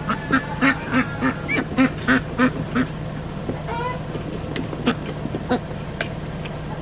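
A domestic duck quacking in a quick run of about ten quacks over roughly three seconds, followed by a few sharp clicks, over the steady low hum of a vehicle engine.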